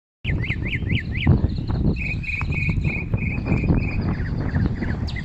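Northern mockingbird singing, repeating each phrase several times before switching: about five quick up-and-down whistled notes, then six buzzy notes, then a run of shorter, lower notes. A loud low rumble runs underneath.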